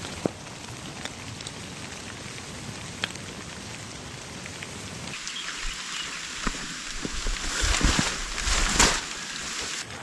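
Steady hiss of rain falling. A little over halfway through the sound changes abruptly, then grows louder, with several dull knocks and rustles near the end.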